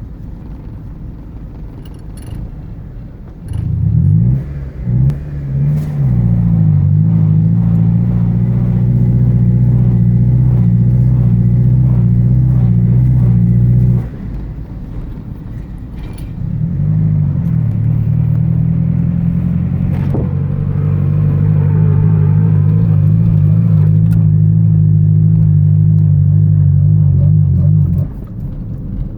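Honda Civic (EG) engine idling, then blipped a few times and held at higher revs for about eight seconds before dropping back to idle; revved again and held for about eleven seconds, then back to idle. The engine has an exhaust leak, which the owner blames for a loss of power.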